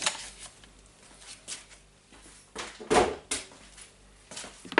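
A few separate knocks and clicks of hard plastic being handled, the loudest about three seconds in, as the DeWalt site radio's case is moved about on the bench to get at its switch.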